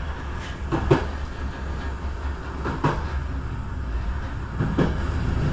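Passenger train running, heard at its rear door: a steady low rumble with a double clack of wheels over a rail joint about every two seconds.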